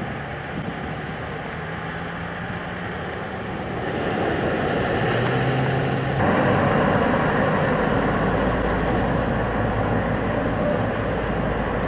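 Steady rushing noise with a low engine hum, like a vehicle running. It grows louder about four seconds in, then turns abruptly louder and deeper about six seconds in.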